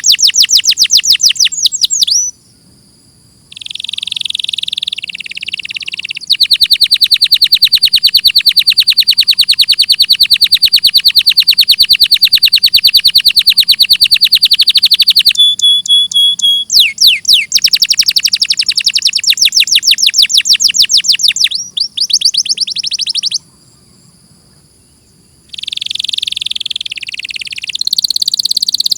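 Domestic canary singing: long, rapid trills of repeated high notes and sweeping notes, broken by two short pauses, one about two seconds in and one a little past the twenty-second mark.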